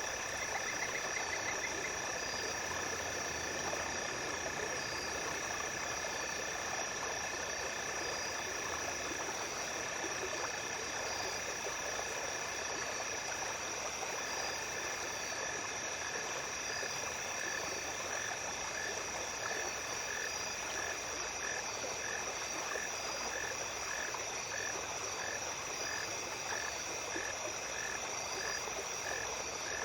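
Night stream ambience: water running steadily under a chorus of calling insects, one holding a constant high trill while others give short repeated chirps. About halfway through, a lower call settles into a regular pulse of about one and a half a second.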